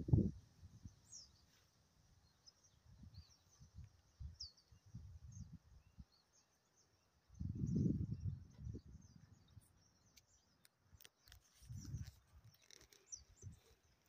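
Small birds chirping: short, high calls scattered throughout, over irregular low rumbling, with a few light clicks in the later part.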